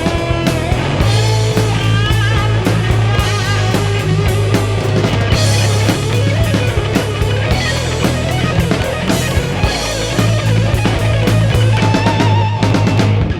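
Rock band playing live: electric guitar lines with bends over bass and a drum kit.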